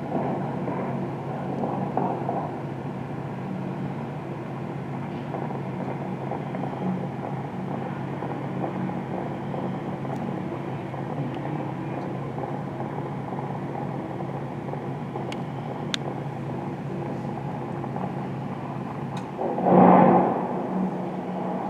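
Steady low rumble of ambient noise, with one louder rushing swell about 20 seconds in.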